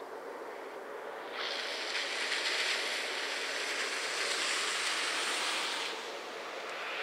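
A distant electric freight train hauled by an EF510 locomotive runs past as a steady rushing noise of wheels on rail. A louder hiss comes in abruptly about a second and a half in and stops suddenly about six seconds in.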